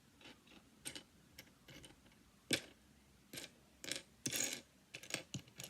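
Loose plastic pieces of a disassembled V-Cube 7 puzzle cube clicking and clattering as they are picked through by hand. The clicks come irregularly, the sharpest about two and a half seconds in and a short rattling run just after four seconds.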